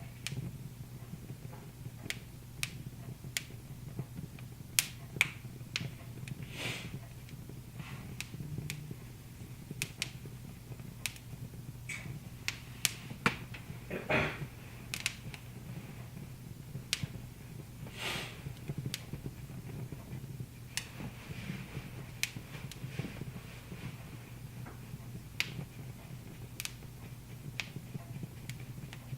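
Wood fire crackling, with irregular sharp pops and a few longer hissing crackles about 7, 14 and 18 seconds in, over a low steady hum.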